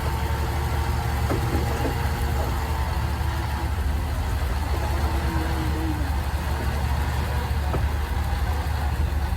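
Heavy machine engine running steadily with a low rumble.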